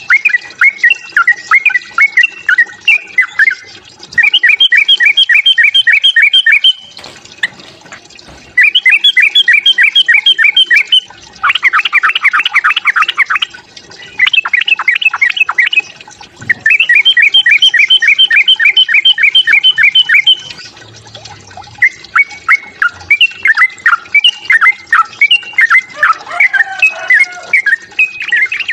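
Yellow-vented bulbul (trucukan) singing its loud, bubbly fighting song: quick runs of repeated chirping notes in bouts a few seconds long, with short pauses between them.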